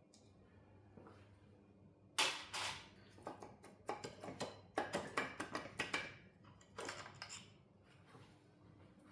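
Clatter of tools and metal engine parts being handled during engine disassembly: a run of sharp knocks and clinks starting about two seconds in and dying away near the end.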